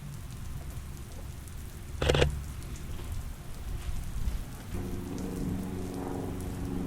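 Steady rain falling on surfaces, with a single short knock about two seconds in. A steady low hum of several held tones joins about two thirds of the way through.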